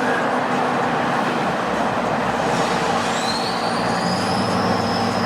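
Diesel pickup truck driving under load, with a high turbo whistle that comes in about three seconds in and climbs, then holds.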